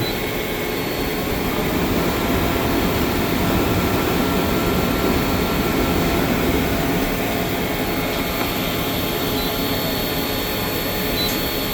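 Blower of an Atlas Ci3000 xenon-arc fadeometer running with a steady rush of air, swelling slightly about two seconds in as the machine is restarted.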